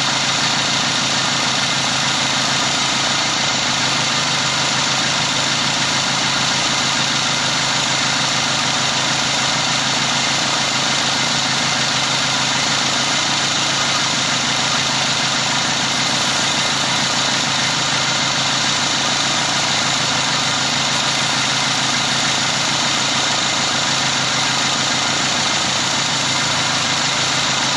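2000 Dodge Neon's four-cylinder engine idling steadily, heard with the hood open.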